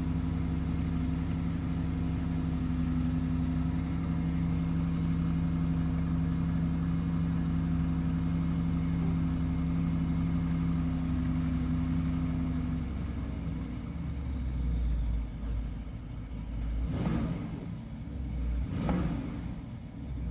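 BMW N63 4.4-litre twin-turbo V8 with its catalytic converters deleted, idling at a steady raised speed just after start-up. About thirteen seconds in it settles to a lower, rougher idle, and near the end the throttle is blipped twice in quick revs.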